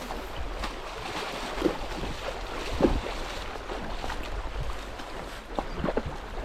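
A horse wading in a shallow stream: water sloshing around its legs, with a few louder splashes, over wind noise on the microphone.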